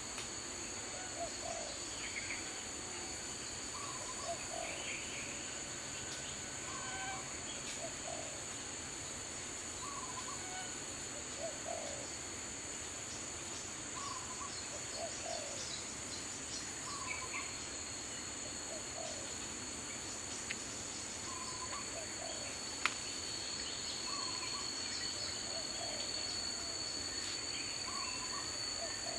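Daytime forest ambience: a steady high-pitched insect drone, with a bird repeating a short low call every second or two and other scattered chirps. A single sharp click comes near the end.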